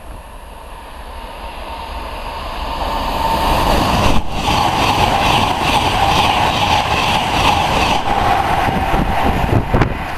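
Virgin express passenger train approaching and passing at speed: the noise builds steadily over the first four seconds, then stays loud and steady with a sustained whine, and a run of sharp clicks near the end.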